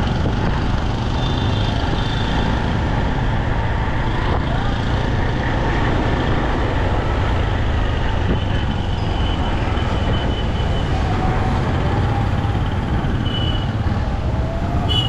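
City traffic heard from a moving motorbike: a steady rumble of engines and road noise, with wind on the microphone.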